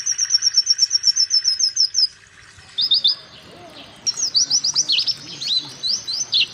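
White-eye (pleci) singing: a rapid string of high, thin chirps at about ten a second that stops about two seconds in. After a pause comes a short burst, and from about four seconds a run of sharp, steeply falling 'wit' notes.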